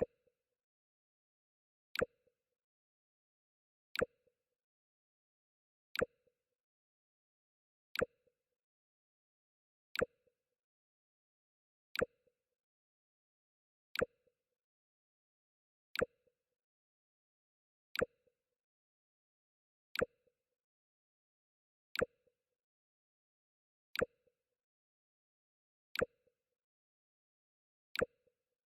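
Mac OS X 'Jump' sound effect: a very short sharp pop, repeated about every two seconds.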